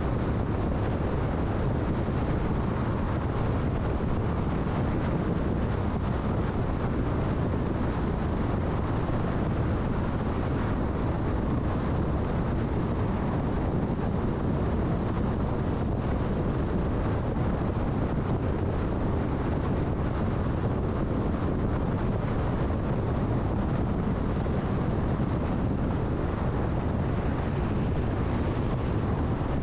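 Steady road noise of a car at freeway speed: tyre roar and wind rushing past, even and unbroken.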